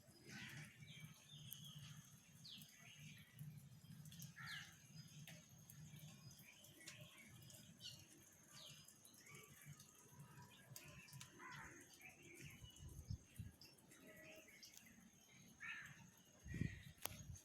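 Faint outdoor birdsong: many short, scattered chirps and calls from several birds, over a steady thin high tone. There is a low thump and a click near the end.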